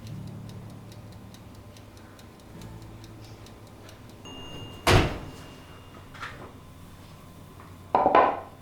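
Kitchen handling sounds: a sharp loud knock about five seconds in, a lighter knock a second later, and a short loud clatter near the end.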